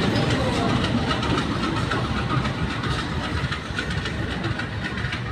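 Passenger train running on the rails, its noise slowly getting quieter.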